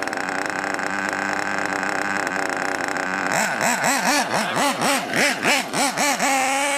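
Small GRP nitro RC engine running at a steady note, then revved up and down rapidly for about three seconds in repeated throttle blips before settling again. The engine is still in break-in and running rich, needing to be leaned out more.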